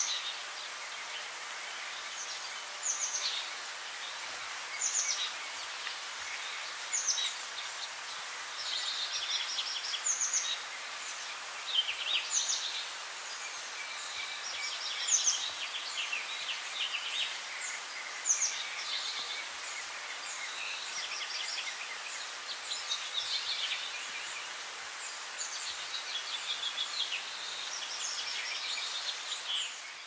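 Wild birds chirping and singing over a steady background hiss: short high calls, quick falling notes and fast trills come every second or two.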